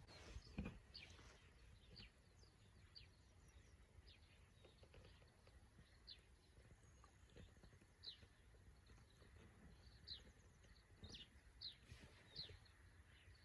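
Faint bird calls: short, high chirps falling in pitch, repeated about once a second. A single sharp knock comes just under a second in.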